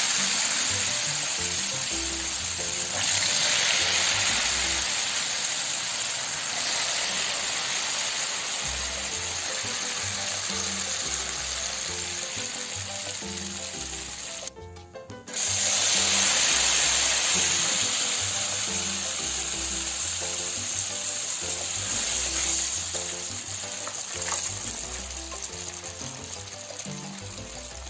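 Beaten egg deep-frying in hot oil in a pan, sizzling and bubbling vigorously, the sizzle easing off gradually toward the end as the egg crisps. It cuts out briefly about halfway through. Background music plays underneath.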